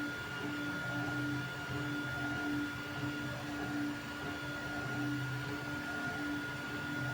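Creality Ender 3 V3 3D printer running a print. Its stepper motors whine in short tones that start and stop every half second or so, over a steady high tone.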